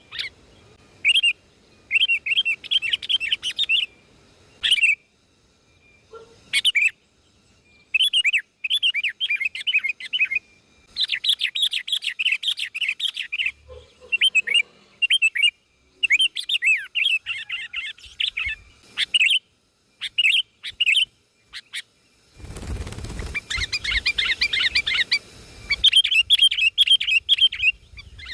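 A small songbird chirping in short bursts of rapid twittering, separated by brief pauses. Near the end, a few seconds of rustling noise sound under the calls.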